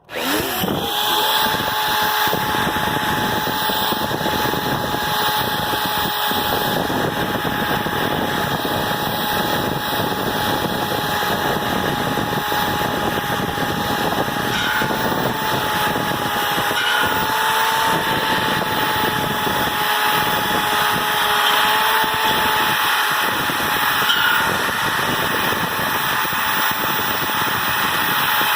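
Electric drill spinning a wire wheel brush against rusty steel grill rods to scour off the rust. The drill spins up quickly at the start, then runs at a steady whine over a continuous scraping hiss.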